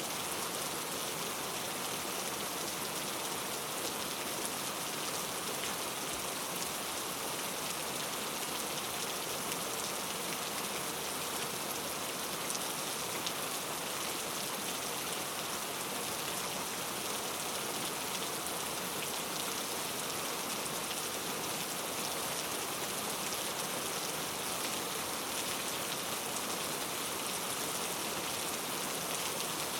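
Steady rainforest rain: an even hiss of many small drops falling without let-up.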